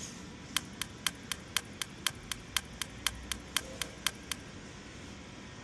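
Rapid, even mechanical clicking, about four clicks a second, sixteen in all, that stops after about four seconds, over a low steady hum.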